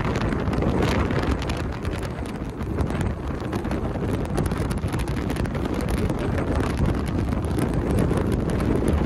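Wind buffeting the microphone over the steady rumble of a passenger train running at speed, heard from a window of the moving train.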